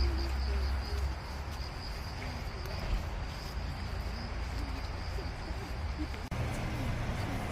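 Crickets chirping: a high, rapidly pulsing trill over a low rumble of background noise, the low background shifting abruptly about six seconds in.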